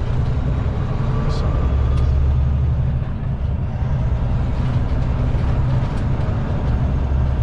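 Kenworth T660 semi truck running down the road, heard inside the cab as a steady low engine and road rumble.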